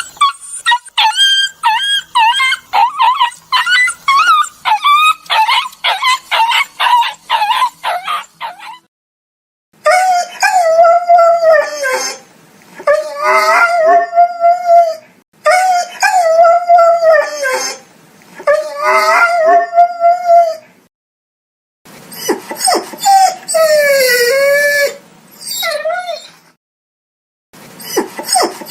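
Dogs whining and crying. It starts with a fast run of short, high yelping whimpers for about eight seconds. After a short silence come long, wavering, drawn-out whining howls, and near the end a few cries that fall in pitch.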